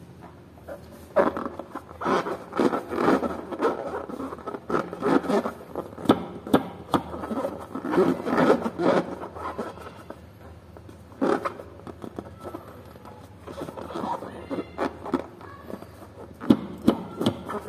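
Fingers squeezing and rubbing a filled latex balloon, making irregular rubbery scraping and squeaking sounds in short clusters with a few sharp clicks.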